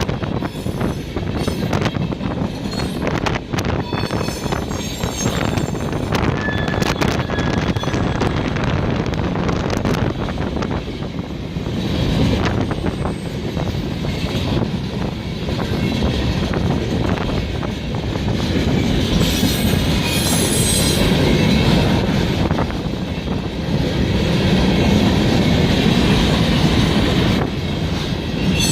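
A train rolling past, its wheels squealing on the rails in thin high tones that come and go. Its wheels click over rail joints in the first several seconds, over a continuous rumble.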